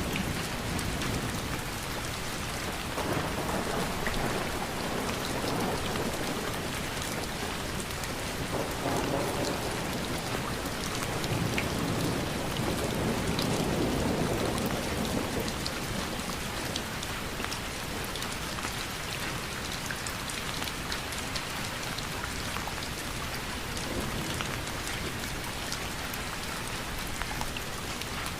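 Steady rain falling, with a dense patter of individual drops ticking on a surface. Twice in the first half a low rush swells up and fades over a few seconds.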